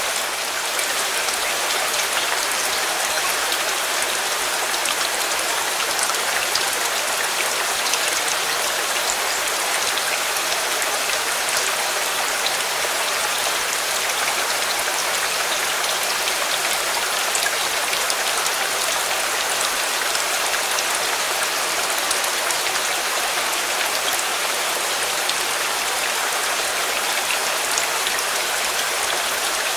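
Steady rain falling, an even hiss dotted with faint sharp ticks of individual drops.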